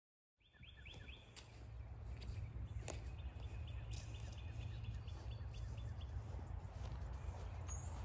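A songbird repeating one short chirp again and again, about three a second, over a steady low rumble, with a few sharp clicks.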